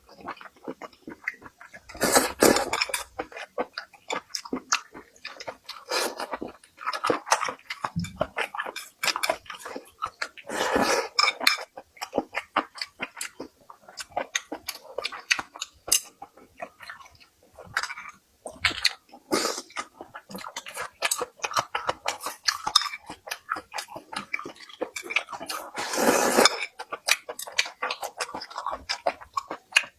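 A person chewing and biting food close to the microphone: many short, irregular mouth clicks, with a few louder crunchy bites spread through.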